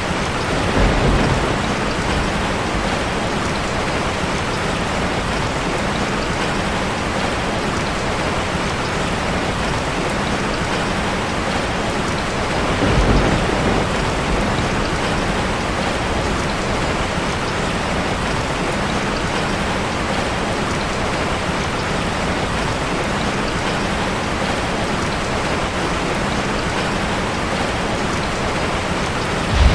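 Steady heavy rain drumming on a metal roof. Two brief low rumbles, like distant thunder, come about a second in and again about midway.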